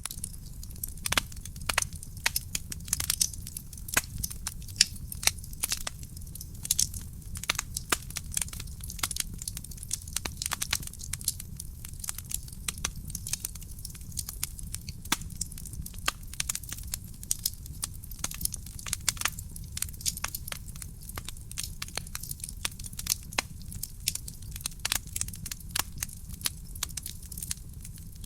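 Wood fire burning in a fireplace: constant irregular crackling and popping, many sharp snaps a second over a low steady rumble of the flames.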